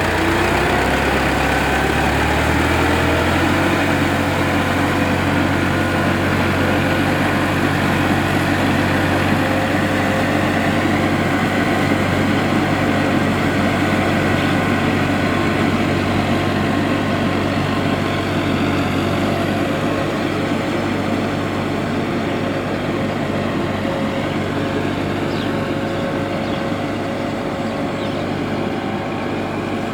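Farm tractor's diesel engine running steadily. Its pitch shifts in the first few seconds, then it holds steady and slowly grows fainter toward the end.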